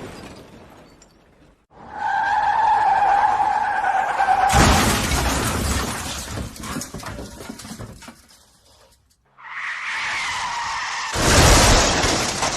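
Car tyres screeching in a skid, ended suddenly by a loud crash with shattering glass that trails off over a few seconds; a second screech and crash come near the end.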